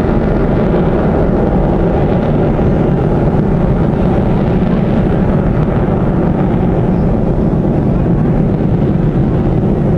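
Aircraft engines making a loud, steady rumble, the higher part of the noise thinning somewhat midway and returning near the end.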